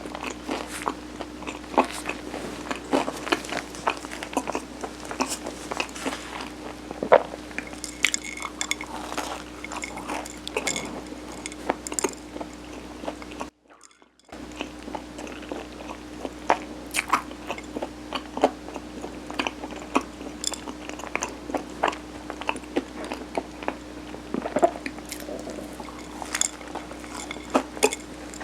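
Close-miked chewing and biting of Korean steamed rice cake topped with mung bean, many small sticky mouth clicks and smacks, over a faint steady hum. The sound drops out to silence for under a second about halfway through.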